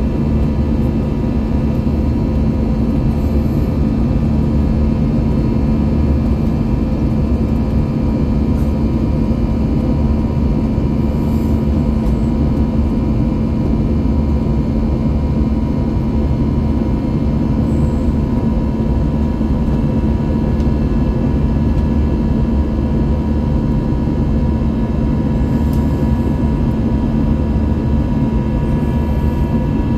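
Airbus A321-200 jet engines running steadily, heard from inside the passenger cabin: an even roar with a steady low hum and a few faint high tones.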